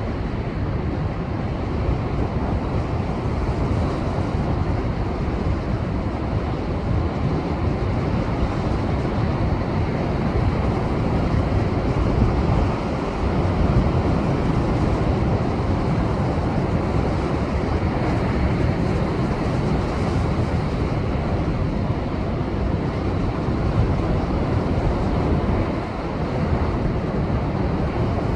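Heavy post-typhoon swell breaking against shore rocks: a continuous, loud rush of surf, strongest in the low end, swelling and easing slightly with no single standout crash.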